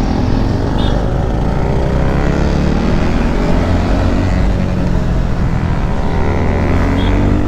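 Motorcycle engines and exhausts running on the move, the engine note climbing steadily as the bikes accelerate.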